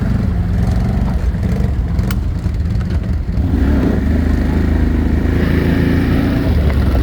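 ATV engine running steadily, speeding up slightly about halfway in and holding there before settling back near the end. A single sharp click about two seconds in.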